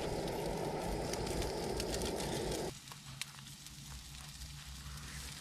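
A loud, steady rushing noise cuts off suddenly under three seconds in. It leaves quieter crackling and sizzling from food cooking over a campfire, with scattered sharp pops.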